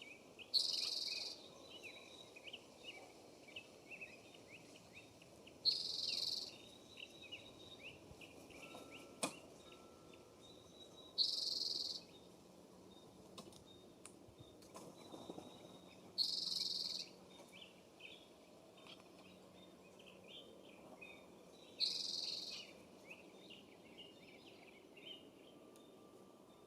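Outdoor birds chirping, many small calls twittering steadily, with a short, hissy buzz that repeats at even spacing about every five and a half seconds and stands out above them.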